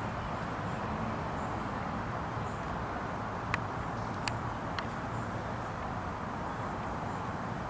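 Steady street background rumble, with no siren, and three short sharp clicks a little past the middle.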